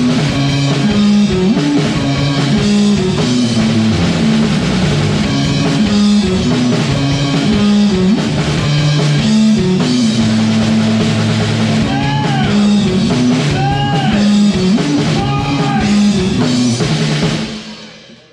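Rock band playing live, with drum kit, electric guitars and bass. A few short bent notes ring out in the second half, then the sound fades out at the very end.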